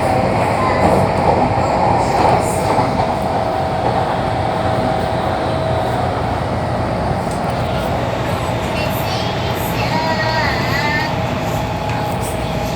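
MTR metro train running along the track: a steady, loud rumble of the rails with a constant whine running through it.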